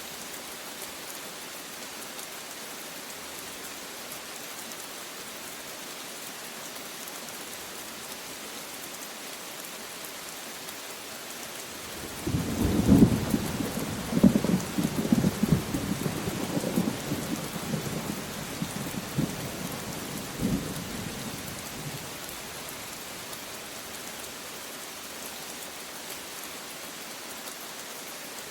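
Steady heavy rain hissing, with a roll of thunder breaking in about twelve seconds in: a sharp crack, then rumbling peals that fade out roughly ten seconds later, leaving the rain alone.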